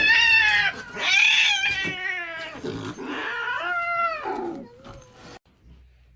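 A cat yowling: a string of four or five loud, drawn-out wavering calls, one after another, that cuts off abruptly about five seconds in.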